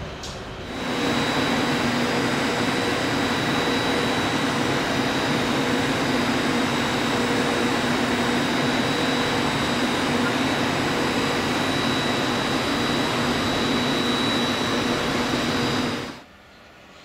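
Frecciabianca electric express train passing at speed close by: a loud, steady rush and rumble of wheels on rail with a steady hum under it. It comes up sharply about a second in and cuts off suddenly near the end.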